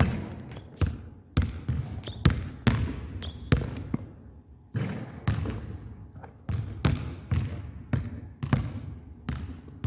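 Basketballs bouncing on a gym floor, roughly two bounces a second at an uneven pace. Each bounce echoes off the hall.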